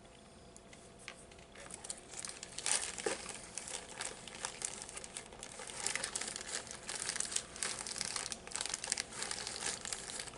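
Candy wrapper crinkling as it is handled, starting about a second and a half in and going on in irregular bursts.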